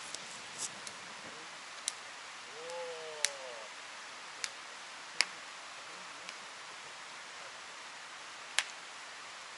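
Frying food over a wood campfire: a steady hiss with scattered sharp crackles and pops at irregular intervals, the loudest about five seconds in.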